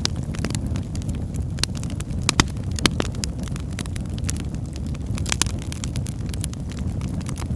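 Wood fire crackling in a fireplace: a steady low rumble with scattered sharp pops and snaps, the loudest few about two and a half seconds in.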